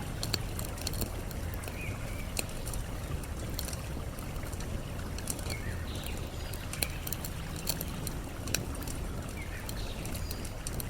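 Campfire crackling, with frequent sharp pops of burning wood, over a steady low rush of flowing water; short bird chirps come every second or two.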